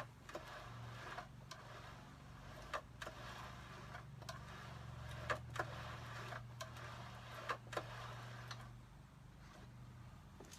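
Folding vertical climber exercise machine being worked: its pedals and handle carriages slide along the post with a rubbing rustle and irregular light clicks and knocks. The motion eases off about two seconds before the end.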